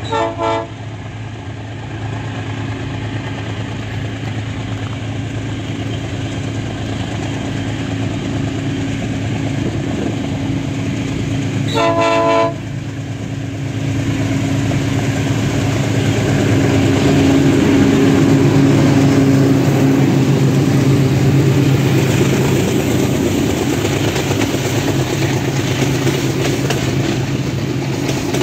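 Two GE U20C diesel-electric locomotives approaching and passing at the head of a loaded freight train. Their engines' steady drone grows louder as they come on. The horn gives two short toots at the start and one longer blast about twelve seconds in. After the locomotives go by, the noise of loaded hopper wagons rolling past takes over.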